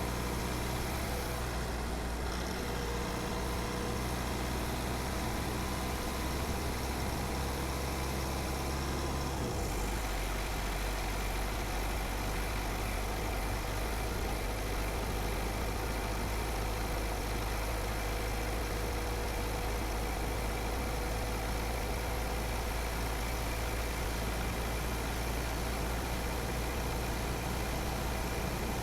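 Car driving along a road: steady engine and road noise. The low engine hum changes pitch abruptly about nine and a half seconds in.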